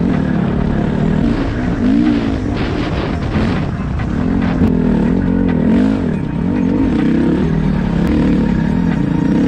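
Dirt bike engine being ridden, its pitch rising and falling over and over as the throttle is worked.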